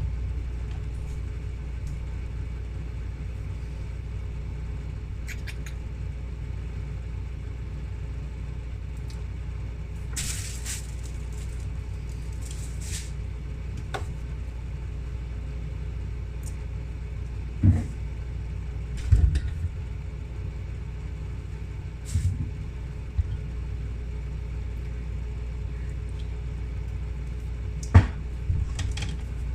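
A steady low rumble or hum, like a motor or fan running, with scattered knocks and clicks, the loudest a few sharp knocks in the second half.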